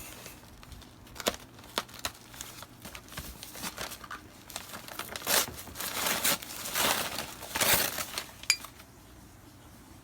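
Packaging around new ceramics being crinkled and pulled open by hand, in uneven bursts of rustling, with one short clink near the end.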